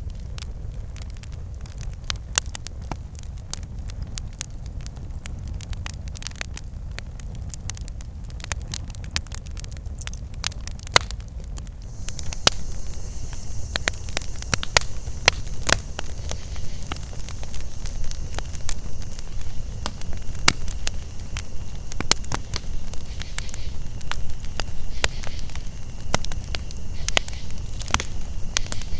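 Campfire crackling, with frequent sharp pops over a low rumble. About twelve seconds in, a steady, high insect chorus joins and stays.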